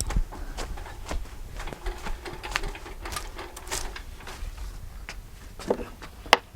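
Irregular clicks and knocks of hard parts being handled and tried for fit around a pipe.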